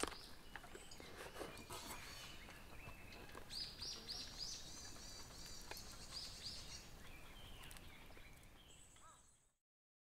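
Small birds chirping: a quick run of five or so short high chirps about three and a half seconds in and a couple more a few seconds later, over faint outdoor ambience with scattered small clicks. It all fades out near the end.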